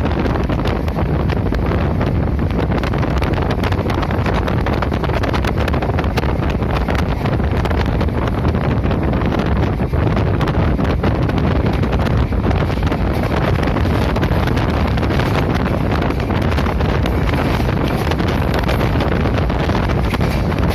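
Wind buffeting the microphone at the window of a moving express passenger train, over the train's steady running rumble and rattle.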